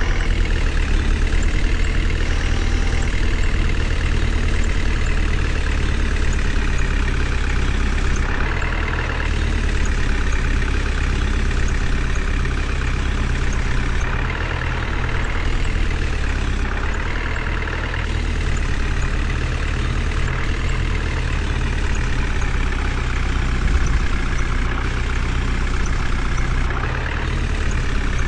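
Heavy vehicle's diesel engine, a tractor or JCB, running steadily with a deep, even hum.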